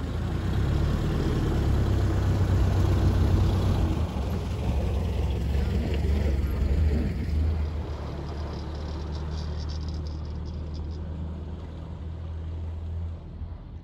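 Ford Model A's four-cylinder engine running as the car pulls away. It is loudest for the first several seconds, then steadier and lower as the car moves off.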